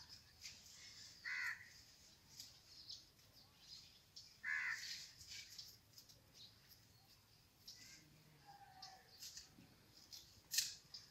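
Bird calls: two loud, harsh calls about three seconds apart, over faint high chirping of small birds, with a sharp click near the end.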